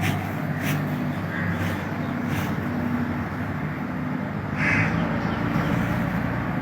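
Steady outdoor background rumble, with one short bird call, likely a crow's caw, a little over two-thirds of the way through.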